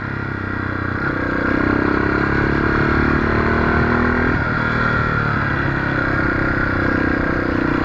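Motorcycle engine running steadily as the bike rides along, its note easing off briefly about four seconds in and then picking up again.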